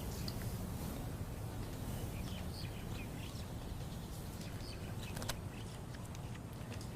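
Small birds chirping now and then, in short high notes, over a steady low outdoor rumble.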